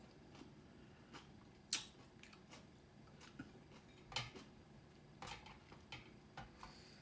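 Quiet close-up eating sounds: soft chewing and wet mouth smacks with scattered small clicks, the sharpest a little under two seconds in and a few more around the middle.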